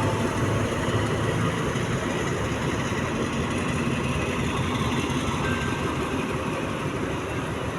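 Diesel locomotive engine running steadily at a low, even idle.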